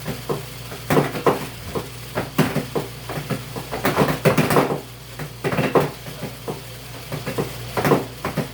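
Irregular clattering and knocks of things being handled and set down, a dozen or more sharp strokes at uneven intervals, over a steady low hum.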